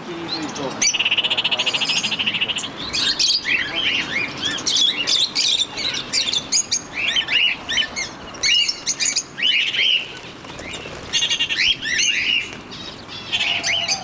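A crowd of aviary birds (cockatiels, doves and finches) chirping and calling over one another in quick, overlapping chirps, with a buzzy trill lasting about two seconds near the start.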